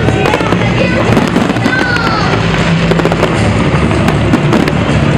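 Fireworks going off in a dense run of rapid crackles and pops, with music playing underneath.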